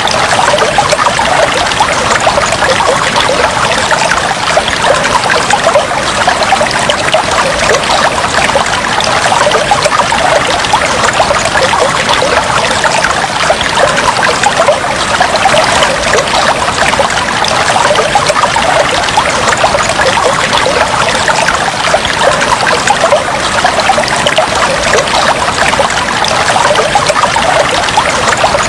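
Fish tank water trickling and bubbling steadily, a dense continuous patter of small bubbles and splashes.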